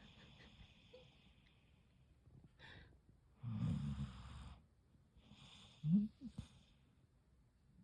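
Jindo dog snoring in its sleep: a soft, wheezy whistling breath, then one loud snore about three and a half seconds in, and a short, sharp snort about six seconds in.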